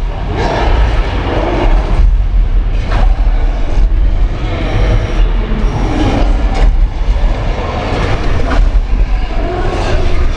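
Simulated earthquake effects on a theme-park tram-tour set: a loud, continuous low rumble with clattering and several sharp crashes, like a subway train rolling and shaking.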